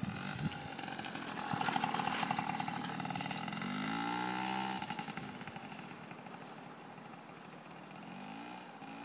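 Small child's motorbike engine running and revving, its pitch rising and then falling about four seconds in, then fading, with a short rev again near the end.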